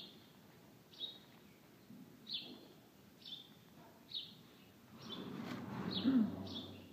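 A small bird chirping: short, high single chirps about once a second. A low rustling noise swells in the last couple of seconds.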